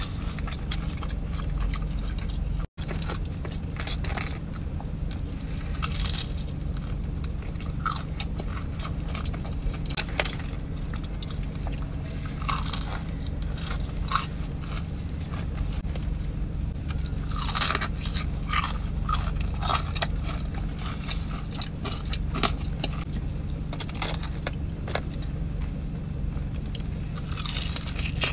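Close-up eating sounds: crunching and chewing through breaded fried food, a mozzarella stick and then a sauced fried chicken piece, with scattered crackly bites and wet mouth sounds. A steady low hum sits underneath.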